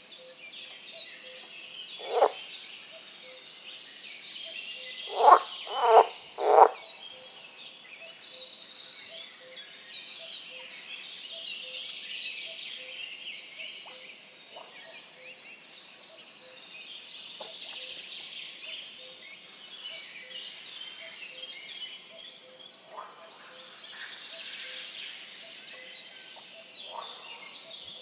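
A chorus of many songbirds singing over one another in a swampy forest. It is broken by a few loud, short, lower calls: one about two seconds in and three in quick succession around five to seven seconds in.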